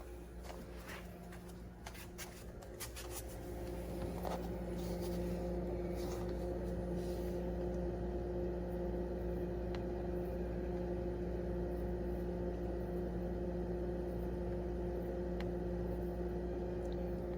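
A wine and beverage refrigerator running with a steady mechanical hum made of several held tones. It gets a little louder about four seconds in, with a few light clicks and handling noises before that.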